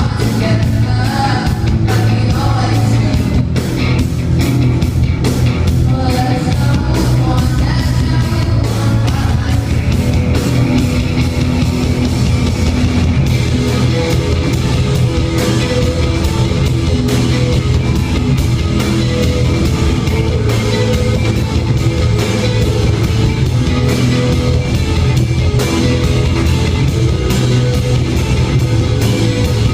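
Rock band playing live and loud: a female lead vocal over electric guitars, bass and drums, the singing most prominent through the first half before the guitars and drums carry on.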